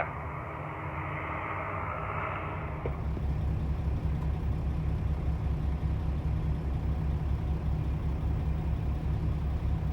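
Heavy truck diesel engine idling with a steady low throb that gets a little louder and more evenly pulsing about three seconds in.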